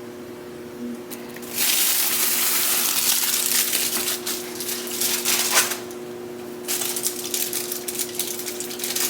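Food being served from a cooking pot into a dish: two stretches of scraping and scooping with small clicks and clinks, the first a few seconds long starting about one and a half seconds in, the second starting near the end.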